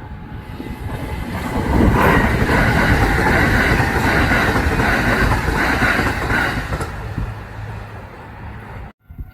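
A Kintetsu electric train passing close by, its wheels clattering over the rail joints. The noise builds for about two seconds, stays loud for several seconds, fades, and then cuts off abruptly near the end.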